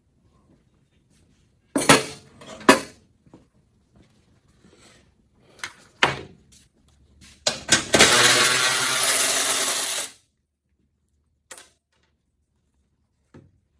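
Several sharp metallic knocks and clanks of parts and tools, then a handheld power tool runs steadily for about two seconds, removing a fastener.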